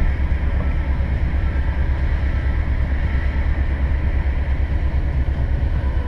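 Heavy diesel engine running steadily: an even, rapidly pulsing low rumble.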